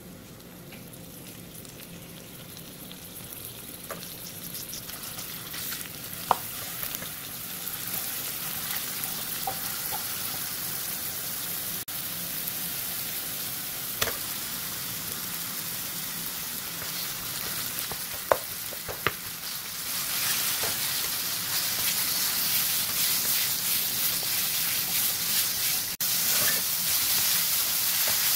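Minced garlic and chopped chili sizzling in chili oil in a wok, growing louder, with a few sharp taps of a spoon against the pan. In the second half seasoned ground pork fries more loudly as a wooden spatula stirs and scrapes it.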